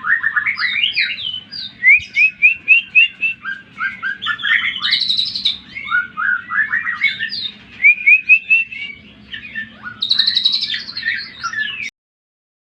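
Cucak ijo (green leafbird) singing a fast, varied song of rapid chirps, trills and rising whistled notes, over a steady low hum. It stops abruptly near the end.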